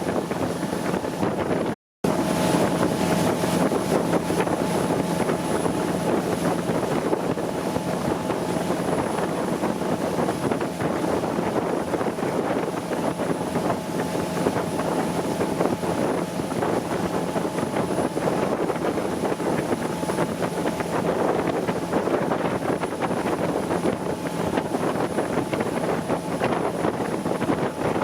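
Motorboat engine running steadily under way, with wind buffeting the microphone and water rushing past the hull. The sound drops out for a moment about two seconds in.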